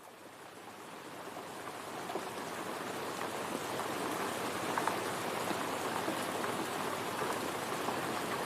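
Steady rain falling, with the patter of individual drops hitting a surface; it fades in over the first couple of seconds and then holds even.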